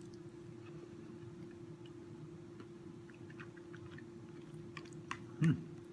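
A man chewing a mouthful of pasta and chicken: soft, faint mouth clicks and smacks over a steady low hum, with a brief low 'mm' from him about five and a half seconds in.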